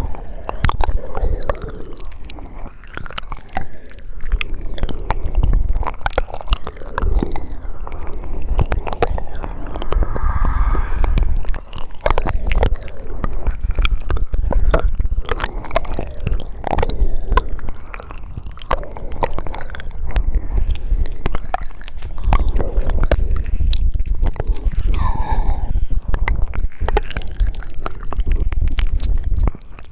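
Close-miked ASMR mouth sounds: rapid wet clicks, smacks and tongue noises, close to the microphone, with a heavy low rumble under them.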